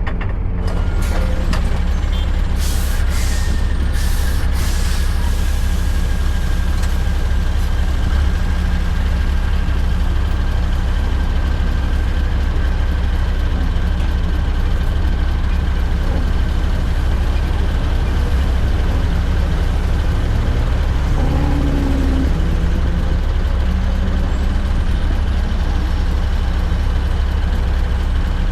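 Scania R580's V8 diesel running steadily through a straight-piped 8-inch exhaust, a deep even drone. A few short hisses of air come in the first five seconds.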